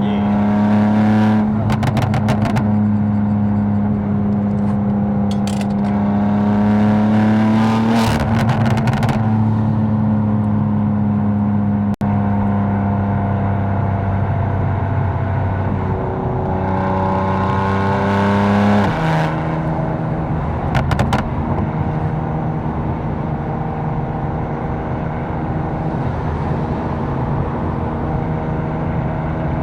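BMW M4's twin-turbo inline-six engine running under way, holding steady for long stretches. Past the middle the revs climb for a few seconds, then drop sharply as it shifts up. Clusters of short sharp clicks come near the start, about eight seconds in and again after the shift.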